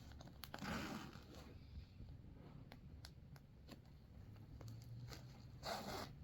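Faint handling noise: scattered light clicks, with two short rustling scrapes, one about a second in and one near the end, over a low steady hum.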